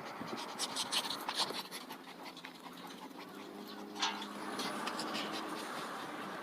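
A dog panting, with a run of short scratchy clicks in the first second and a half and a single sharp click about four seconds in.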